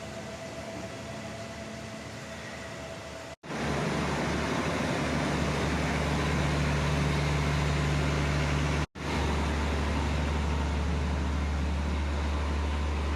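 Train running, heard from inside a carriage: a steady low rumble with road-like noise, broken by two brief dropouts where the footage is cut, and louder after the first one about three seconds in.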